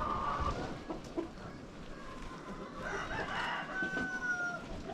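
Chickens clucking, with a rooster crowing in a long held call near the end.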